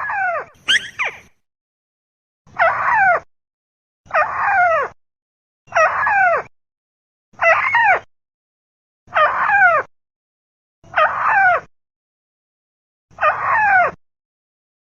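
Looped lure recording of a tikusan (a crake) calling: a falling, many-stranded call of under a second, repeated about every one and a half to two seconds, eight times, with dead silence between calls.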